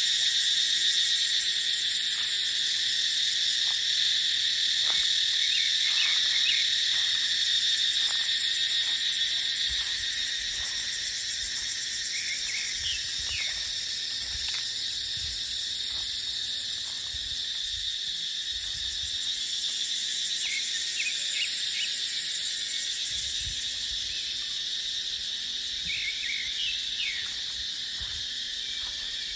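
A dense, steady chorus of cicadas buzzing, with a few short chirps over it and a low gusty rumble of wind from about ten seconds in.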